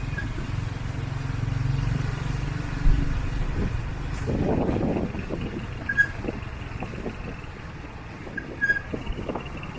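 Street traffic: a vehicle engine running low and steady, fading after about three seconds, with a knock about three seconds in and a few short high chirps later.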